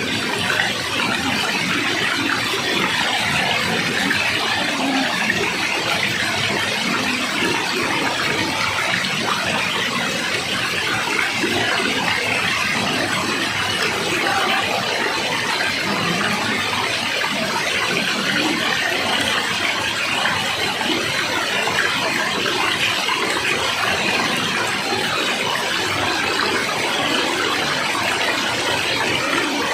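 Water rushing steadily, a continuous even roar without breaks.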